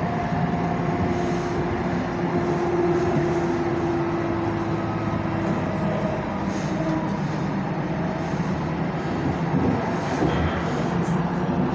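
Tram running along the track, heard from inside the car: a steady rumble of wheels on rails with a faint whining tone that holds for several seconds in the first half.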